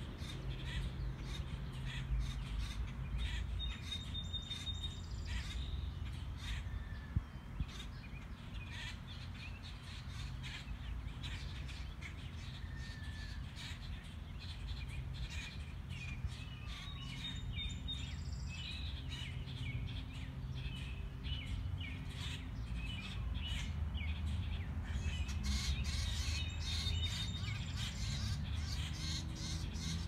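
Wild birds chirping and calling, many short high notes, with one high call coming back three times. A steady low rumble runs underneath.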